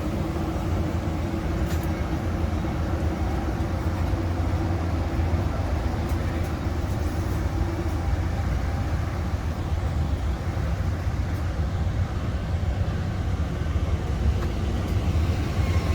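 Amtrak Southwest Chief passenger train giving a steady low rumble.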